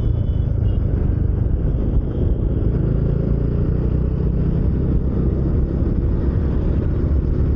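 Motorcycle ridden at highway speed, heard from a helmet-mounted microphone: a steady, low rush of wind over the helmet mixed with engine and road noise.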